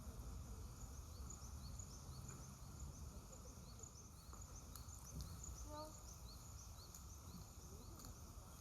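Faint run of short, high bird chirps, about three a second, over a low steady background rumble, with a few faint clicks.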